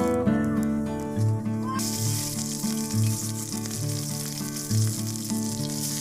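Oil in a wok starts sizzling about two seconds in as green chilies go into it, and the frying hiss then continues steadily. Background music with a regular beat plays throughout.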